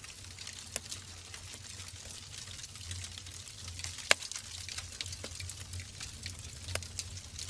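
Wood fire burning in a fireplace, crackling: irregular snaps and pops over a steady hiss and low rumble, with one loud pop about four seconds in.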